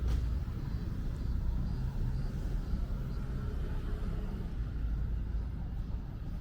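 Outdoor city ambience: a steady low rumble of traffic, with one sharp click right at the start.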